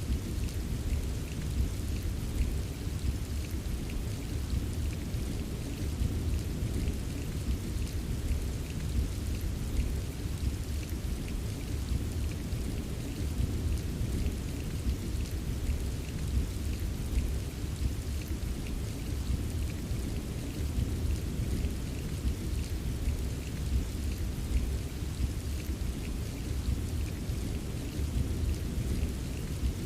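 Steady rain with a fine patter of drops, over a continuous low rumble of distant thunder. It holds even throughout, with no sharp thunderclap.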